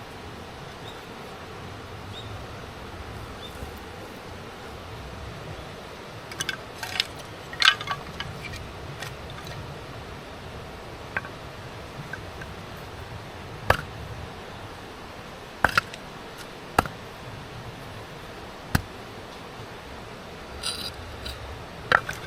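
Scattered sharp clicks and clinks, a small cluster about a third of the way in and then single ones every second or two, over a steady low background hiss.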